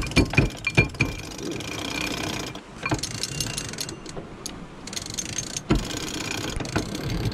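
Freshly cleaned and reassembled sailboat winch being turned, its pawls clicking in quick, irregular strokes.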